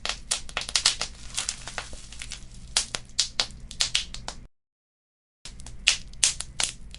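Fire crackling in a fireplace: rapid, irregular sharp pops and snaps over a faint low rumble. The sound cuts out completely for about a second past the middle, then the crackling resumes.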